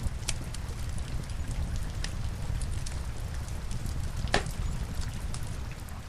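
Wood fire crackling in a fireplace, with scattered sharp pops and one louder snap about four seconds in, over a steady low rumble and the patter of rain.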